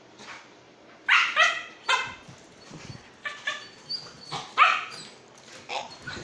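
Dog barking and yipping in a run of short, high calls, starting about a second in, several in quick succession.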